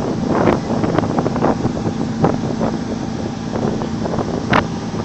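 Wind buffeting the microphone on a RoRo ferry under way, with short gusts over the steady low hum of the ship's engine.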